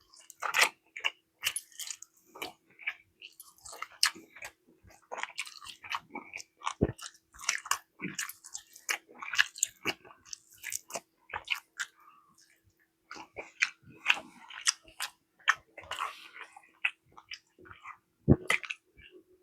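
Close-miked chewing and biting: wet mouth clicks and smacks as a person eats a barbecue chicken meal. Two dull knocks stand out, about 7 s and 18 s in, over a faint steady hum.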